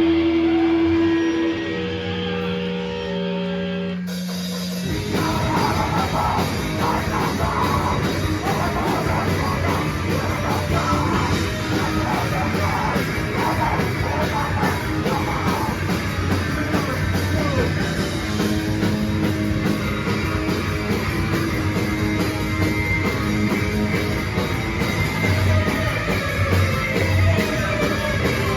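Loud live rock band playing through a PA. A few seconds of held guitar notes give way, about four seconds in, to the full band with drums crashing in hard and playing on at full volume.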